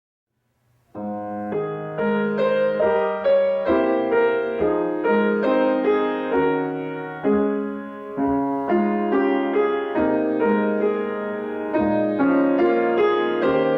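Solo piano playing, starting about a second in after silence, with notes and chords struck at a steady, unhurried pace.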